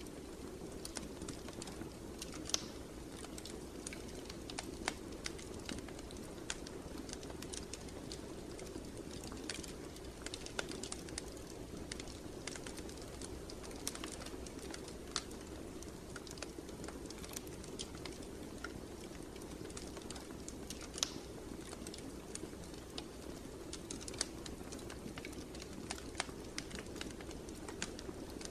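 Fire in a fireplace burning steadily, with a soft low rumble and irregular sharp crackles and pops, a few louder snaps among them.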